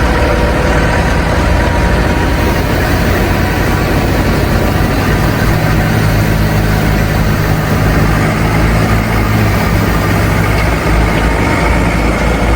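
An engine running steadily at idle: a continuous low drone with no change in speed.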